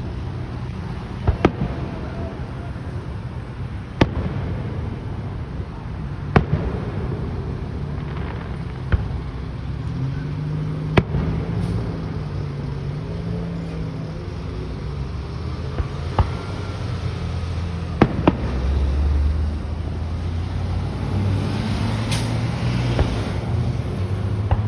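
Fireworks going off: sharp bangs at irregular intervals, a couple of seconds apart, with two close together past the middle and a faint whistle near the end.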